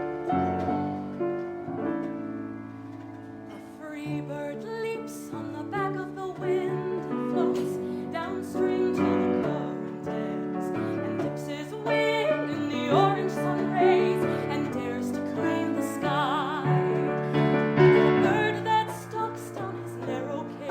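Slow piano introduction to a ballad: held chords and single notes, with a higher melody line over it that wavers in pitch in the later part.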